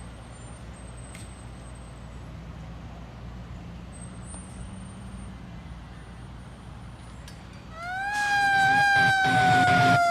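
Fire engine idling with a low, steady rumble. About eight seconds in, its siren comes on loud, a wailing tone that climbs briefly and then slowly falls.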